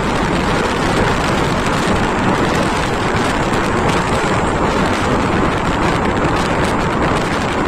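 Steady rush of wind and road noise from a moving motorcycle, with wind buffeting the microphone.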